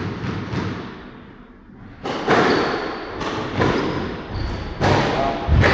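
Squash rally: the ball cracks sharply off rackets and the court walls every half second to a second, with short high squeaks of shoes on the court floor. The strikes begin about two seconds in, after a quieter start.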